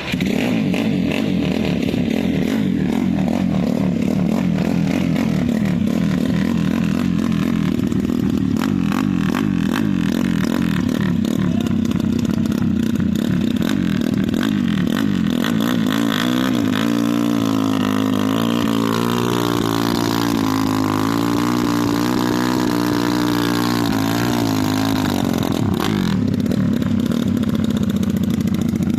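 Drag-racing motorcycle engines running loud at high revs, the pitch rising and falling in waves from about halfway through as the throttle is worked.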